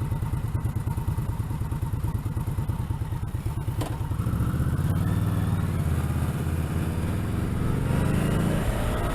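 BMW K1200GT inline-four motorcycle engine idling with an even pulse, then pulling away from about four seconds in, its note rising as it accelerates.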